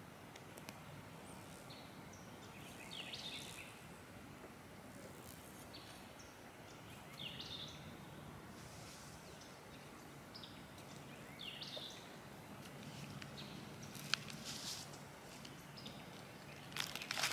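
Faint outdoor ambience with a bird giving short, sharp chirps every few seconds. A sharp click comes about fourteen seconds in and a brief rustle near the end.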